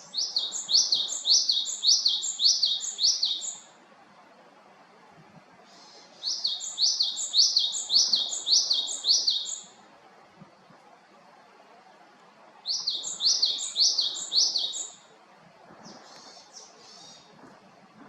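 Japanese tit (great tit group) singing three bouts of its repeated high two-note phrase, about two phrases a second, with short pauses between bouts. A fainter, buzzy call follows near the end.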